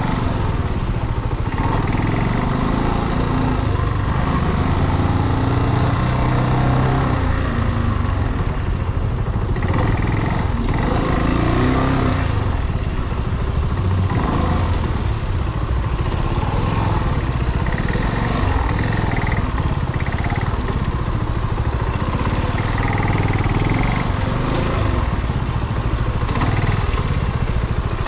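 Brixton Cromwell 250's single-cylinder air-cooled engine running while the motorcycle is ridden, its pitch rising and falling as the throttle and speed change.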